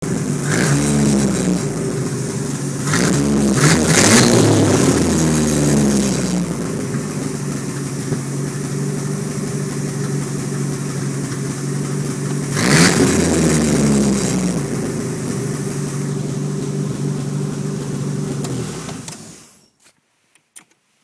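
Freshly built Chrysler 2.5 L turbocharged four-cylinder in a 1986 Dodge Omni GLHT running on its first start. It is revved several times in the first six seconds and once more about 13 seconds in, idles steadily between, and stops near the end.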